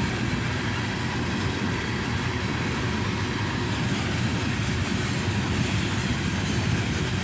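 Coal train cars rolling past: a steady rumble and rush of steel wheels on rail.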